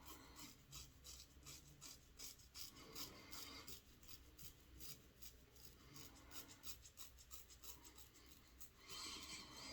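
Gillette Red Tip safety razor with a Kai blade scraping through stubble in many short, quick strokes, faint throughout, with a louder stretch near the end.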